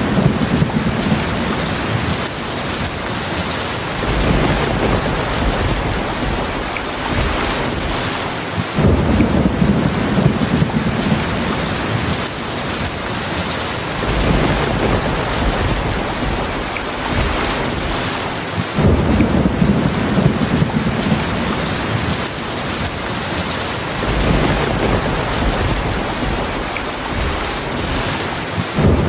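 Heavy rain falling steadily, with low thunder rumbles that swell in about every ten seconds and fade over several seconds.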